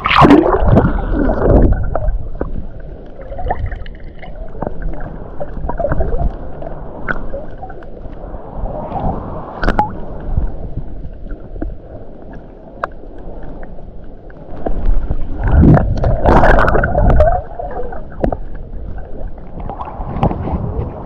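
Seawater sloshing and gurgling around a camera dipped in and out of the sea, muffled underwater, with louder splashing at the start and again about three-quarters of the way through.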